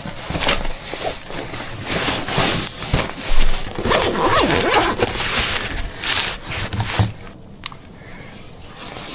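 Quick rustling, ripping and scraping strokes of plastic bags and carpet being torn open and handled, dense for about seven seconds, then quieter near the end.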